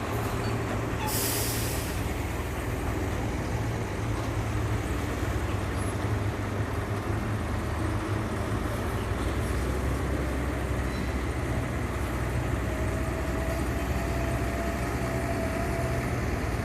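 Diesel engine of a Hyundai four-axle dump truck running steadily with a low drone, with a short hiss of air about a second in.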